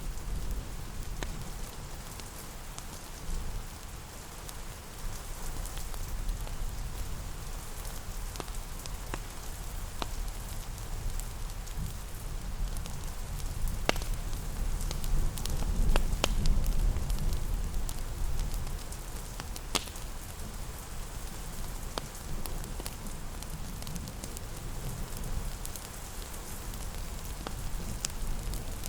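Steady rain hiss with a low rumble, mixed with a fireplace crackling: scattered sharp pops a few seconds apart.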